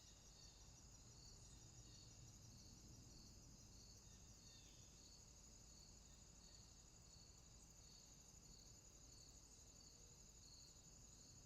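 Faint rainforest insect chorus at night: a steady high trill, with a lower pulsing chirp repeating a little more than once a second beneath it.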